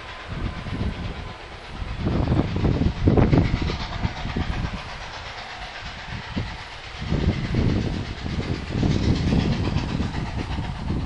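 Train moving along the track, with an uneven low rumble that swells and fades several times.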